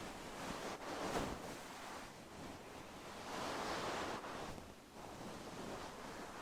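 A brush and fingernails rubbing over the fur cover of a Blue Yeti microphone, heard as a few slow swells of rustling noise. The longest and fullest stroke comes from about three to four and a half seconds in.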